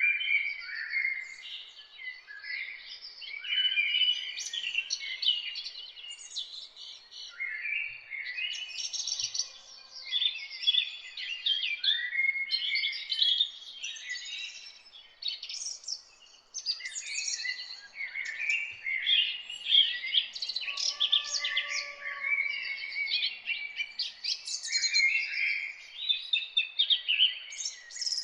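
Several songbirds singing and chirping at once, in quick overlapping warbled phrases that come in bouts with short pauses between them.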